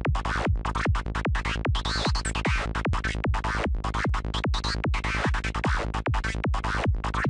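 Native Instruments Massive software synth playing a looped dark, FM-like psytrance lead: a fast run of short, evenly spaced notes, about five or six a second, with a filter sweeping up and down.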